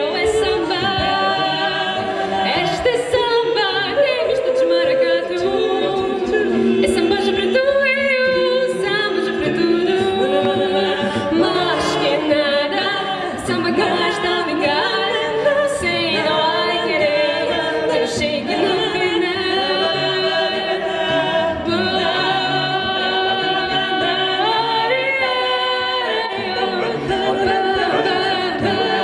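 A cappella vocal group singing unaccompanied, several voices holding and moving chords in close harmony.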